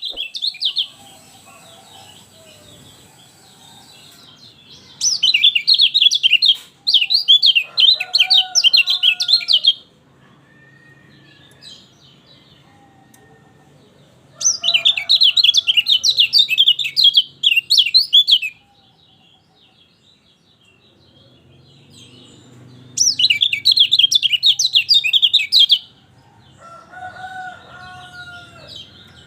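Kecial kuning (a white-eye) singing in runs of rapid, high twittering chatter, each lasting a few seconds. The song comes four times, with softer lower whistled notes in the gaps between.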